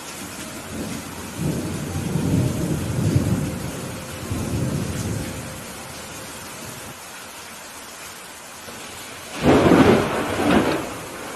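Thunderstorm: steady rain hiss, with a low roll of thunder rumbling for several seconds early on, then near the end a sudden, louder thunderclap that cracks twice in quick succession.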